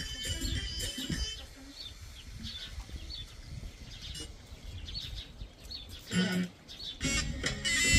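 Small birds chirping in short, scattered calls. A brief pitched call sounds about six seconds in, and a louder voice is heard near the end.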